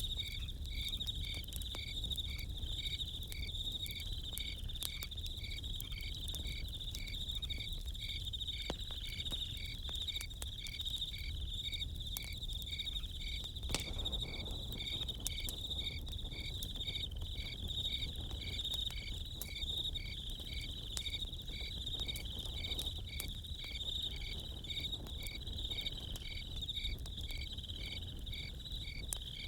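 Crickets chirping in a steady rhythm of about two chirps a second over a continuous high insect trill. Scattered sharp crackles of a campfire and a low rumble sit beneath it.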